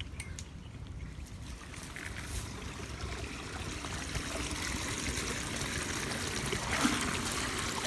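Floodwater running and trickling, growing steadily louder.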